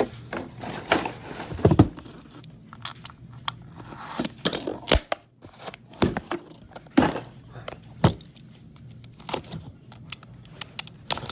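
Trading card packs and cards being handled: plastic and foil wrappers crinkling and tearing, with scattered sharp clicks and snaps.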